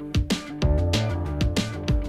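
Instrumental background music with a steady beat of sharp, evenly spaced strikes over held notes.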